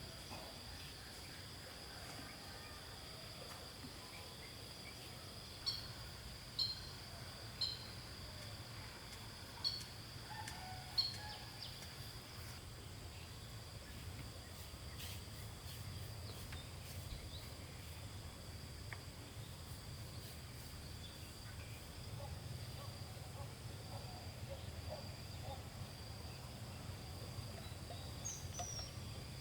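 Rural outdoor ambience: a steady high-pitched insect drone over a low hum, with five short bird chirps in the first half and another near the end.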